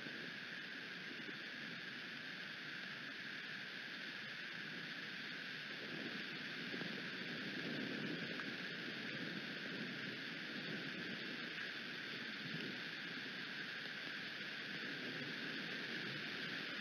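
Steady hiss of rain with wind, swelling into low gusty rumbles for several seconds midway.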